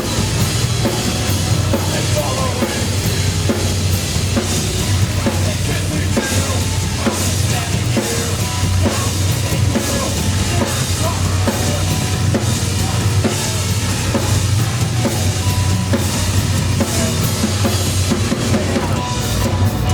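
Live band playing loudly, with a drum kit prominent (bass drum, snare and cymbals) over bass guitar and keyboards.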